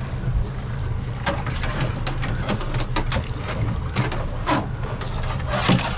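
Boat's outboard motor running steadily with a low drone, under a series of irregular short sharp noises, the loudest near the end.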